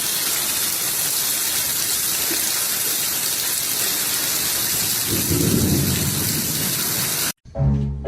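Steady hiss of heavy rain, with a deeper rumble swelling about five seconds in; it cuts off abruptly near the end.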